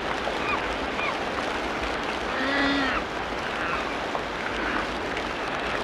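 Tropical rainforest ambience: a steady hiss with scattered short bird chirps. About two and a half seconds in comes one louder call of about half a second from a bird or other animal, rich in overtones, arching up and then down in pitch.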